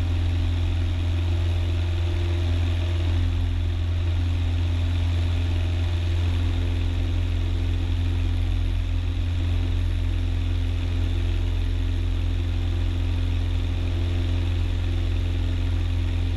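Cessna 172's piston engine and propeller at takeoff power, a steady low drone through the takeoff roll and climb-out.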